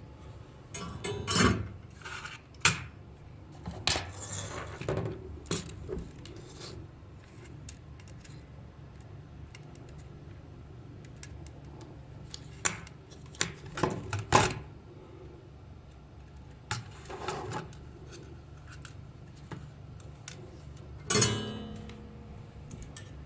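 Irregular clicks, taps and clatters of small hard objects being handled, over a low steady hum.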